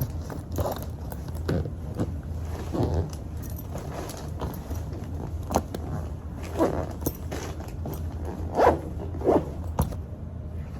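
Packing noises: clothes and bags handled, rustled and zipped, in short scrapes and clicks over a steady low hum, with the loudest swishes in the second half.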